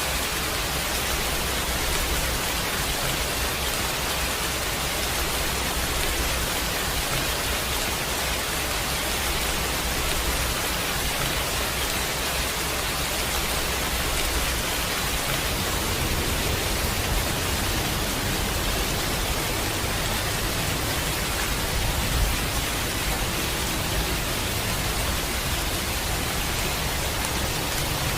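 Steady heavy rain, an even hiss, with a low rumble of distant thunder swelling and fading underneath.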